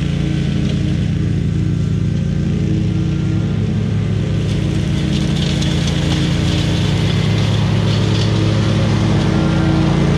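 Zero-turn mower engine running steadily under load, with a higher rustling hiss growing stronger from about halfway through.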